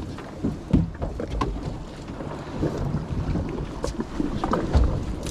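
Wind buffeting the microphone over the low rumble of a small fishing boat at sea, with scattered knocks and thuds, two of them louder, near the start and near the end.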